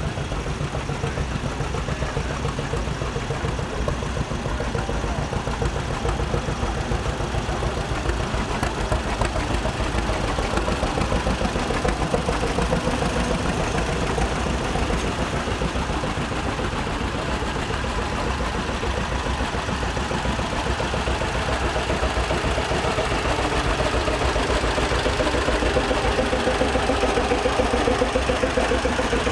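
Antique tractor engines running at low speed, a steady rumble with a rhythmic beat; a stronger, higher engine note builds over the last ten seconds or so.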